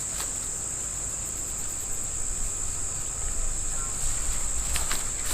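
Insects calling in one continuous high-pitched drone, with a few faint clicks near the end.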